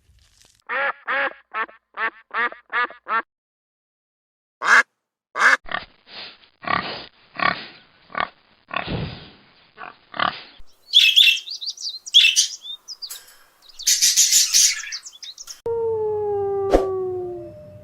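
A sequence of animal calls, mostly birds: quick runs of short calls of the quacking kind in the first half, then higher, shriller bird calls. Near the end come a few falling whistle-like tones over a low hum.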